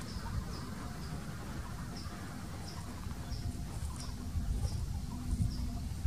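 A bird's faint, high chirp repeated evenly about three times a second, over a steady low rumble.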